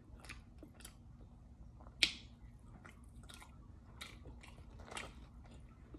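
A person chewing fries close to the microphone: soft, scattered wet mouth clicks and smacks, with one sharper click about two seconds in.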